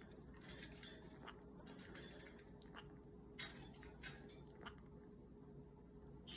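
Pet parrot making its imitation of a drinking sound: a faint series of short clicks and slurps at irregular intervals.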